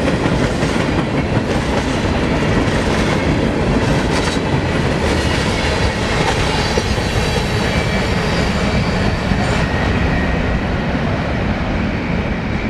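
Grain train's freight cars rolling past: a steady rumble of steel wheels on rail with clicking over the joints and a faint thin wheel squeal.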